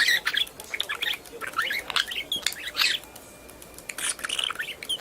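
Birds squawking and chirping in quick, overlapping calls, with a lull of about a second a little past the middle.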